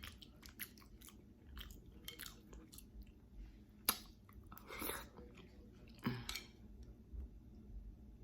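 Person chewing soft food, fufu with egusi soup and fried plantain, with scattered wet mouth clicks. A sharp click about four seconds in is the loudest sound, and short noisy bursts follow around five and six seconds in.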